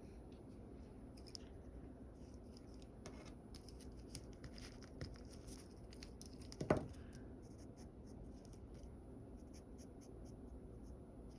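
Short scratchy strokes of a drawing tool on paper, coming in quick clusters and thickest through the middle. A single knock a little past halfway, the loudest sound, like the tool or a hand tapping the drawing surface.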